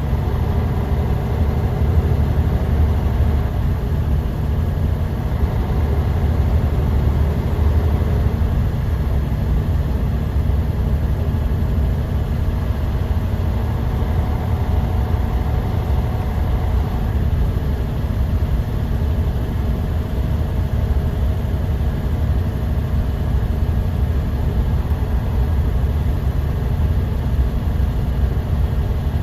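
Bus engine running steadily under way, heard from inside the passenger cabin: a continuous low drone with road noise and a few faint steady whines above it.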